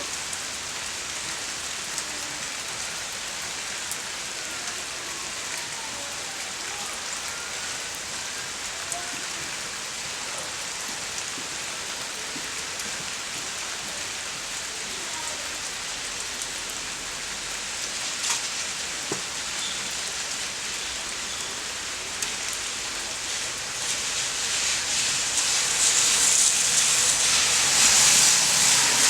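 Steady rain falling, an even hiss that swells louder over the last few seconds.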